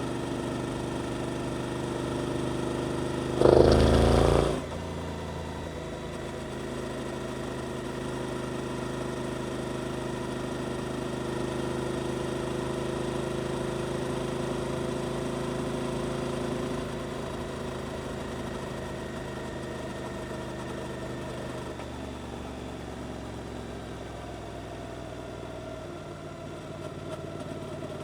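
Suzuki GSX-8S parallel-twin engine running through an Arrow aftermarket exhaust at steady revs under way. About three and a half seconds in, a loud burst lasts about a second, and the engine note eases lower twice later on.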